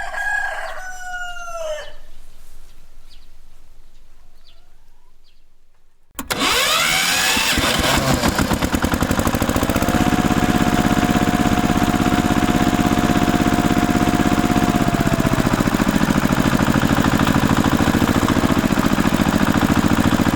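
A rooster crows at the start. After a few quieter seconds, an engine starts suddenly about six seconds in and keeps running with a fast, even beat; a steady tone joins it for about five seconds in the middle.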